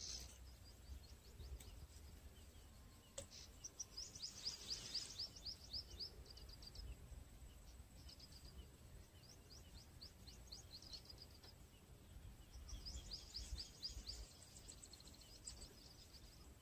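Faint bird calls: three runs of rapid, high-pitched chirps, each lasting a few seconds, over a low steady outdoor rumble.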